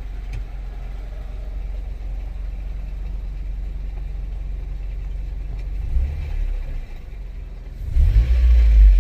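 A 2002 Honda Civic LX's 1.7-litre four-cylinder engine idling with its rebuilt automatic transmission out of gear, making a clattering that stops when the car is put in reverse or drive. The owner suspects it may be a case bearing. There is a louder rumble about six seconds in and again near the end.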